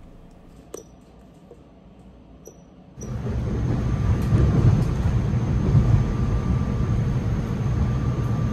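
Interior running noise of a SEPTA Regional Rail electric multiple-unit car under way: a steady low rumble with a faint steady whine. It starts abruptly about three seconds in, after a quiet stretch with a few light clicks.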